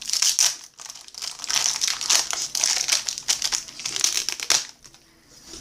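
Crinkling and rustling of a trading-card pack wrapper being handled and opened, in a quick run of crackly bursts that stops about four and a half seconds in.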